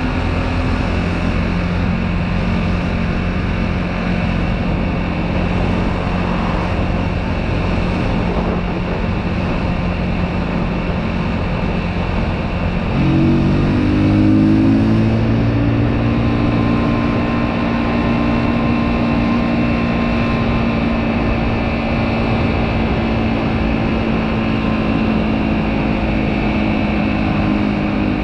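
125cc motorcycle engine running on the move, with wind and road rush. About 13 seconds in the engine note steps up in pitch, gets briefly louder, then holds steady at the higher pitch.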